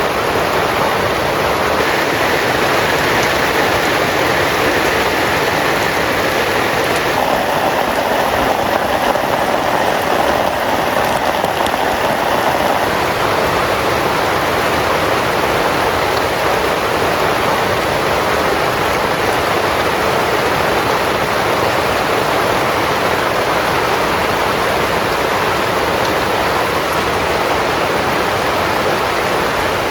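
Heavy rain falling steadily on a tent, a dense, even patter.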